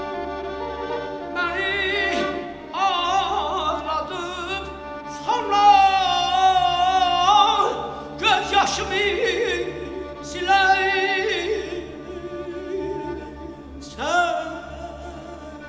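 Azerbaijani mugham singing: long, ornamented vocal phrases with wavering, trilled pitch, several times over, above sustained orchestral strings.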